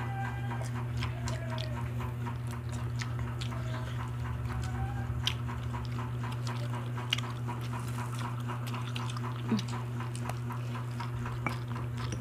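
Close-up eating sounds of people chewing grilled barbecue skewers: wet chewing and lip smacks with scattered sharp clicks, over a steady low hum. A few short whining sounds come in and out.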